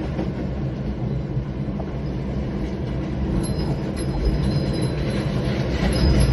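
A loud, steady low rumble, with faint high tones joining about halfway through.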